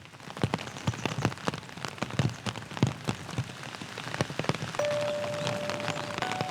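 Rain falling, with many separate large drops striking close by as distinct taps over the steady patter. Near the end a steady held musical note comes in.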